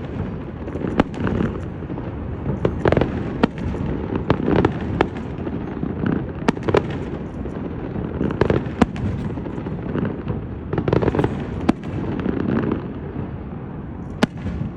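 Aerial fireworks shells bursting in quick succession: many sharp bangs at irregular intervals, several a second at times, over a continuous rumble of overlapping reports.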